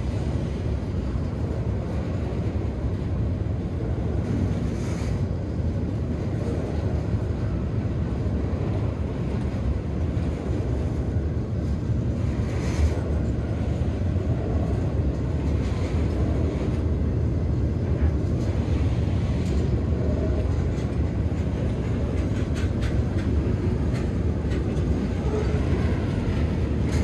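Freight train moving, a steady low rumble.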